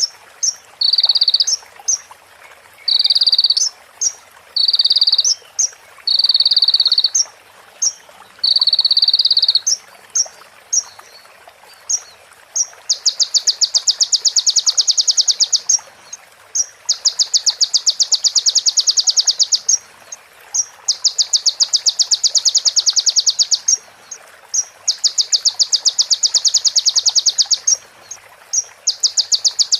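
Sunbird (konin) song built on mimicked prinia calls: first a string of short, high, buzzy notes about once a second, then, from about halfway, long, very fast rattling trills of about three seconds each, repeated four times with short pauses, in the manner of a female prenjak's call run into ciblek.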